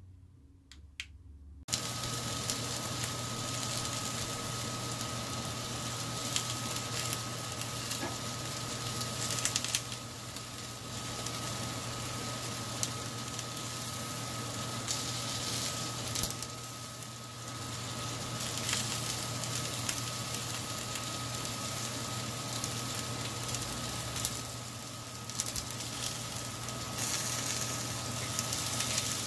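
French toast (egg-soaked bread) sizzling on a flat-top griddle, with a steady hum underneath. The sizzling comes in abruptly about two seconds in.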